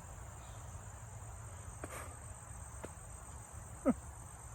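Steady high-pitched chorus of crickets and other insects, over a low rumble, with a couple of faint clicks and a brief falling sound near the end.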